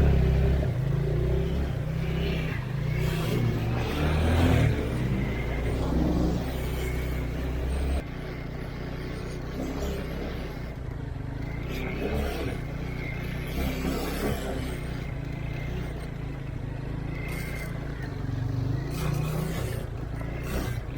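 Off-road vehicle engine running. It is louder for about the first eight seconds, then drops abruptly to a quieter, steadier drone.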